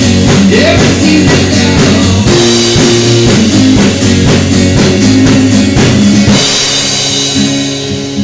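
Instrumental break in a rock song: drum kit, guitar and bass playing together with a steady beat. The drums fall away near the end, leaving the guitar.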